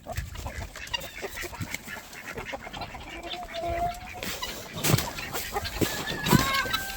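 A mixed flock of farm poultry calling and clucking: many short scattered calls with a few longer pitched calls, one about three seconds in and another, rising, near the end.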